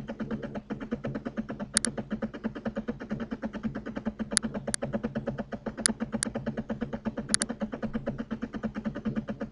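Computer mouse clicking, in single clicks and quick double clicks a few seconds apart, over a steady, fast-pulsing background hum.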